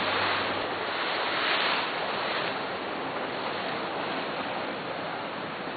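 Steady rushing of ocean waves and wind. It swells briefly about a second and a half in, then settles.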